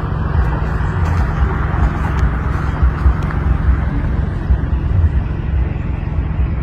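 Strong storm wind gusting and buffeting the microphone, a heavy, uneven low rumble under a steady rush of noise.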